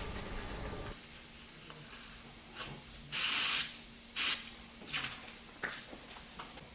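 Airbrush spraying paint in short hissing bursts: two loud bursts just past the middle, the first lasting under a second, with several fainter short puffs before and after.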